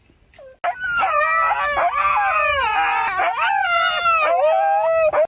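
A dog howling: a long, wavering howl whose pitch rises and falls, starting about half a second in and cutting off abruptly near the end.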